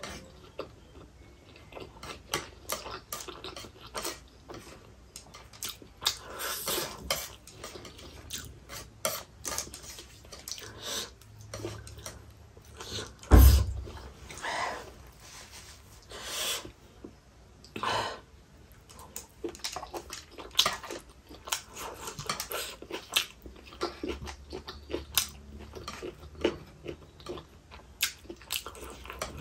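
Close-miked chewing with wet smacking mouth sounds and irregular clicks, with a few light taps of chopsticks on the foil tray. One loud, deep thump about halfway through.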